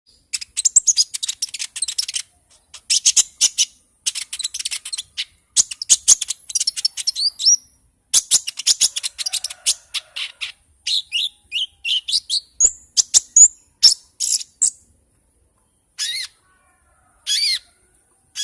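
Konin songbird singing: rapid, high-pitched chattering phrases in bursts of a second or two, with short pauses between them. Near the end it thins to two short calls.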